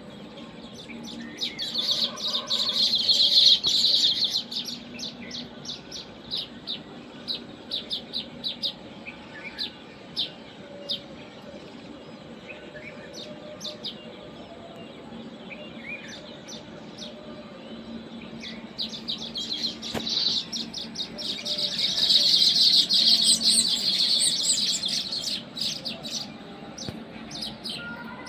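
Small birds chirping: quick, high chirps coming in two dense, louder bouts, one a couple of seconds in and another from about twenty seconds, with scattered single chirps between.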